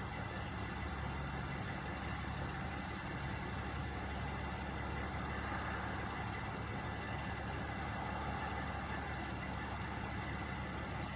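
Truck engines idling, a steady unchanging drone with no revving.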